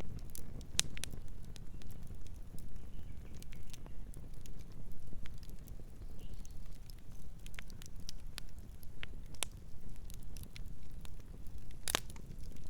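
Campfire crackling, with irregular sharp pops of burning wood over a low, steady rumble. One louder pop comes near the end.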